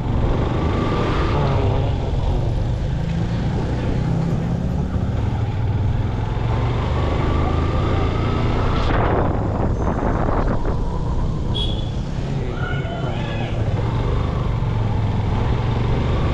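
Motorcycle running steadily while riding, its low engine hum under road and wind noise, with a louder rush about nine seconds in.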